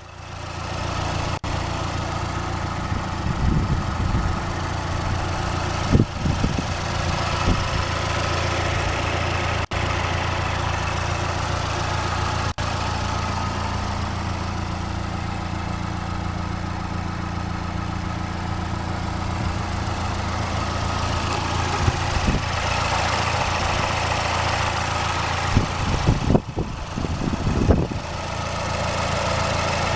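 2012 Mazdaspeed3's 2.3-litre turbocharged four-cylinder engine idling steadily.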